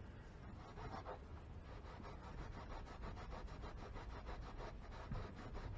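Faint, quick scraping strokes on a plastic fuel tank, about eight a second, in an even rhythm that slows and fades near the end.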